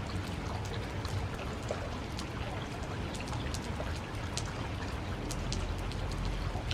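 Steady rain falling, with many separate drops ticking sharply on hard surfaces over an even hiss, and a steady low rumble underneath.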